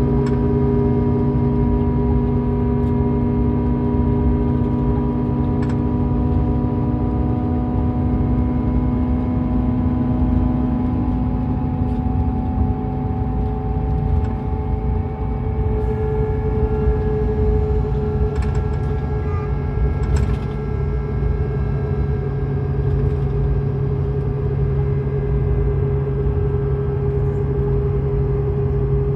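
Scania K410EB6 coach's 13-litre straight-six diesel running steadily under way, a deep rumble with a stack of steady engine and driveline tones. About a third of the way through, the tones slide to new pitches as engine speed changes.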